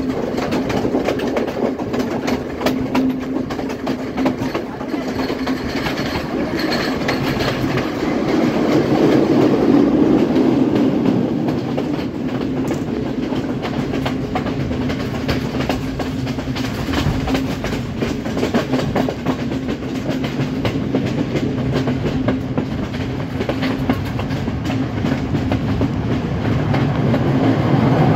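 Passenger train running at speed, heard from an open carriage doorway: a continuous clatter of wheels over the rails over a steady rumble and low hum. It swells for a couple of seconds about nine seconds in.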